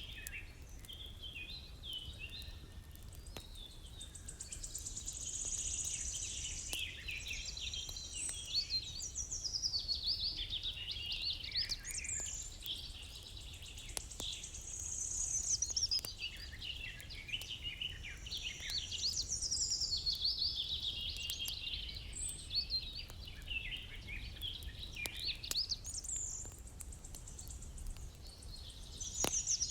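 Birdsong: several birds chirping and warbling in quick runs of high notes, coming in phrases every few seconds, over a steady low rumble with occasional faint clicks.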